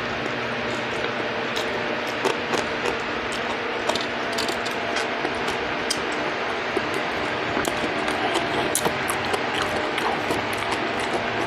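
Close-up chewing of crispy deep-fried trout: irregular crunches, clicks and wet mouth smacks, over a steady background noise.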